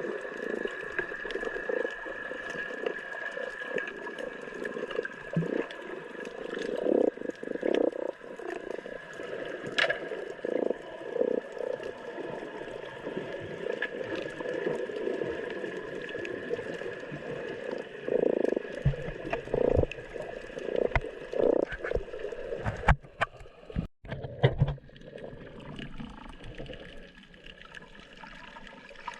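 Muffled water sounds, gurgling and sloshing in uneven surges, over a faint steady high tone, with a few sharp knocks near the end.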